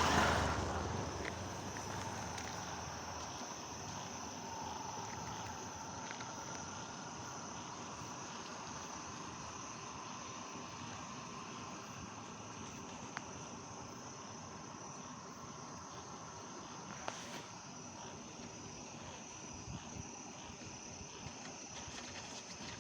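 A passing vehicle fades away over the first two seconds. Then comes a steady outdoor background of crickets or similar insects chirring in one high continuous drone over a faint hiss, with a few sharp clicks.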